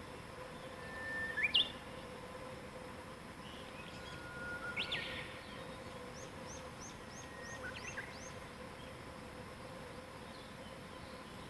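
Wild songbirds singing in a morning chorus: several phrases of a held whistle that leaps up to a sharp high note, and a quick run of about seven short high chirps. A faint steady hum and hiss lie underneath.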